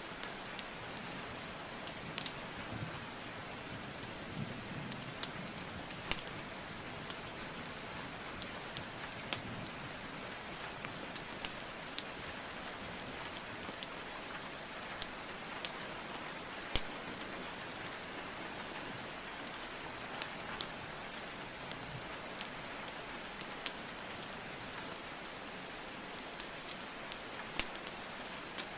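Steady rainfall hiss with a wood fire crackling over it: sharp, irregular pops and snaps scattered throughout.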